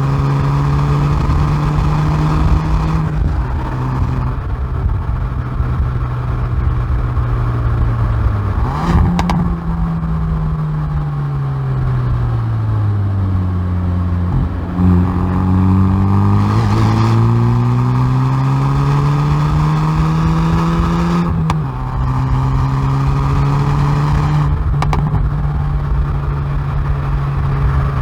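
Exhaust of a Hyundai i30N Performance's turbocharged 2.0-litre four-cylinder, heard from the rear bumper while lapping a circuit. The revs hold steady, then fall away for several seconds under braking, jump up once as a gear goes down, and climb again under acceleration. Near the end the revs drop at an upshift and then run steady, with sharp cracks at the gear changes.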